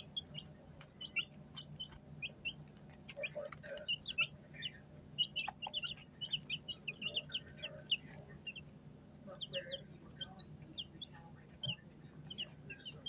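Chickens peeping and chirping continuously, many short high calls in quick succession, over a steady low hum.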